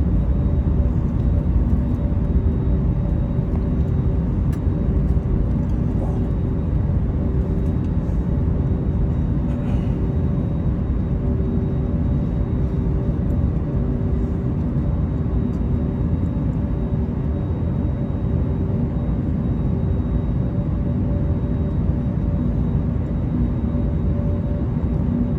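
Airbus A321 cabin noise on the ground before takeoff: a steady low rumble with a faint even hum, the engines running at low power.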